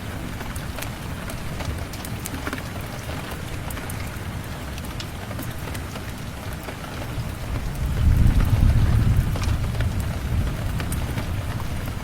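Steady rain with scattered sharp ticks, and a low rumble of thunder that swells up about eight seconds in, lasts a couple of seconds as the loudest sound, then fades back under the rain.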